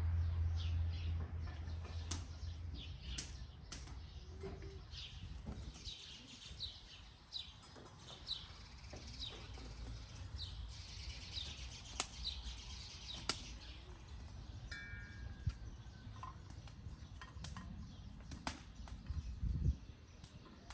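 Small birds chirping over and over in a garden, with a few sharp clicks scattered through; a low hum at the start fades within the first couple of seconds.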